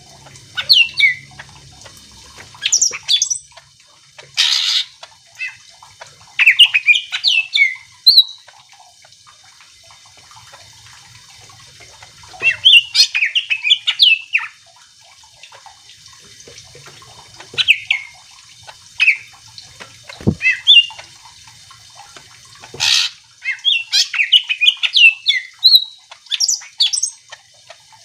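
A cucak ijo (green leafbird) sings in bursts of fast, varied whistled and chattering notes with short pauses between phrases. Twice, about four seconds in and again near the end, it gives a short harsh rasping call.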